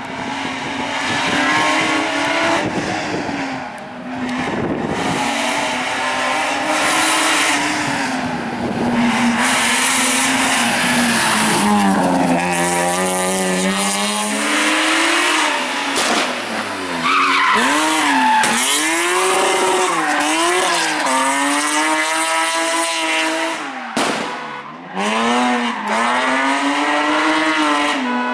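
450-hp BMW 1 Series rally car's engine under hard acceleration on a hillclimb, its revs climbing and dropping through gear changes and throttle lifts. In the second half the revs rise and fall in quick surges about once a second.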